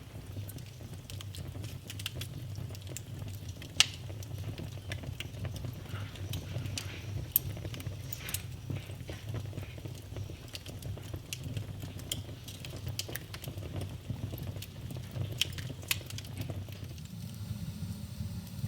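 Wood fire burning in a fireplace: a steady low rumble of flames with scattered sharp crackles and pops from the burning logs, the loudest pop about four seconds in.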